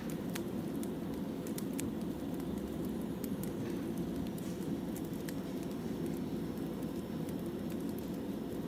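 Wood fire burning, with irregular sharp crackles and pops from the burning logs over a steady low rush.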